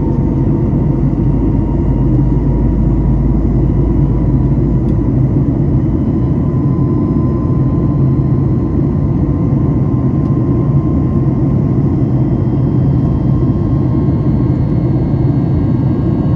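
Boeing 737 MAX 8's CFM LEAP-1B jet engines running at climb power, a steady deep roar heard from the passenger cabin, with a faint whine that rises slowly in pitch.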